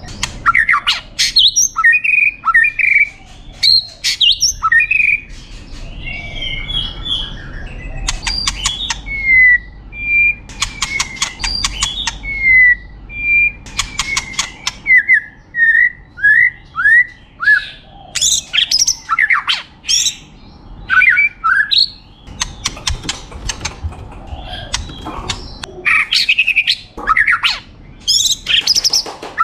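White-rumped shama singing a long, varied song: clear whistled slurs and chirps mixed with fast, dry rattling runs of clicks.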